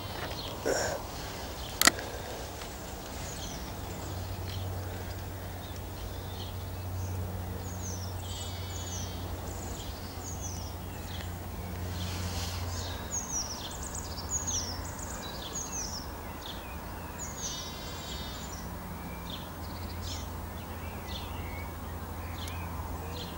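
Small songbirds singing: short high-pitched falling notes with a couple of buzzy trills, over a steady low hum. A single sharp click just under two seconds in.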